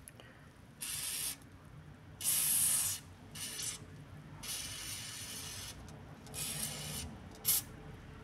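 Aerosol spray lubricant (Vaselina Car 80) hissing in several short bursts, each about half a second to a second long. It is being sprayed onto the lower rubber bushing of the stabilizer link to stop the suspension squeaking.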